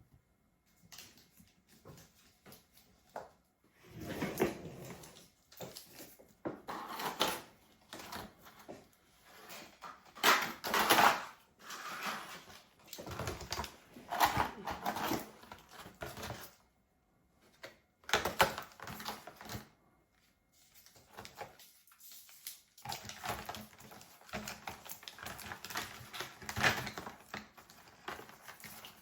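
Irregular runs of clicking and tapping on a MacBook Pro's keyboard and trackpad, typing in bursts with short pauses, louder about ten seconds in.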